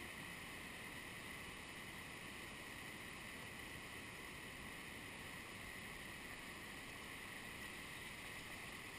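Steady rushing of the Casaroro waterfall, an even, unbroken roar of falling water.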